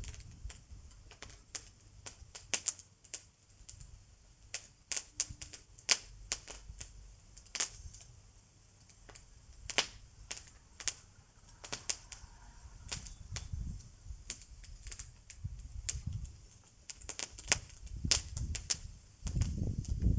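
Bonfire crackling and popping, with irregular sharp snaps. A low rumble swells at times and is strongest near the end.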